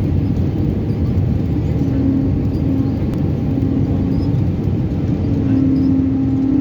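Steady cabin noise inside an Airbus A319 in flight on approach: the rumble of engines and rushing air, with a humming tone that fades in and out.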